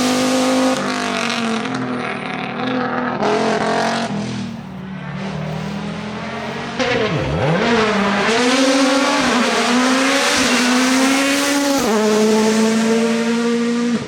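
Rally car engine at high revs under hard driving. The pitch dips and climbs again with gear changes and throttle lifts, and it is louder from about seven seconds in.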